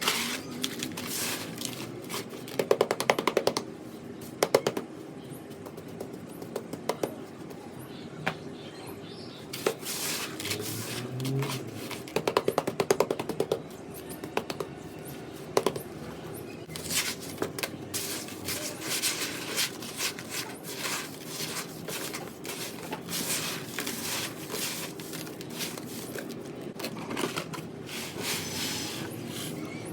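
Gritty sand-cement being worked by hand: irregular crunches and sharp taps, with a few bursts of quick clicking.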